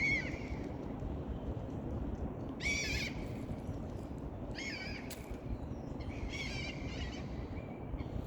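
A bird calling four times, about two seconds apart, each call short with a wavering pitch, over a steady low rumble of wind or water noise.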